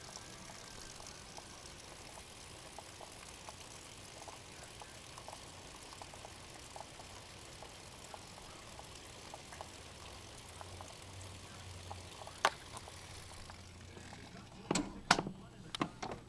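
Steady heavy rain with scattered drip ticks. Near the end the rain noise drops away and a few sharp knocks or clicks sound.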